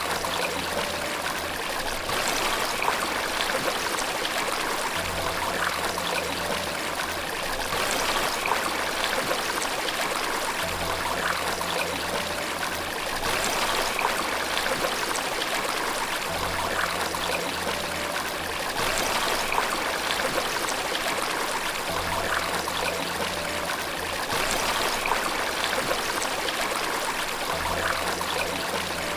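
Running water, a stream or small waterfall, splashing and trickling steadily. A faint low tone swells in about every five and a half seconds.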